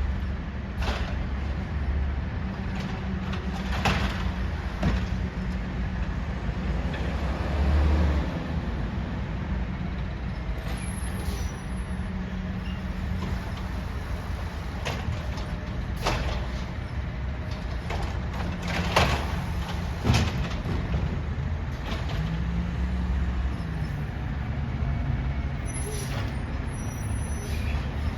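Peterbilt 320 trash truck's engine running, rising in pitch now and then as it revs, with several sharp clanks and knocks along the way.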